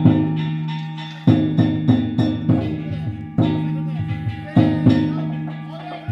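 Danjiri festival music on drums and gongs: loud struck beats, each ringing on and fading, with quicker, lighter strokes between.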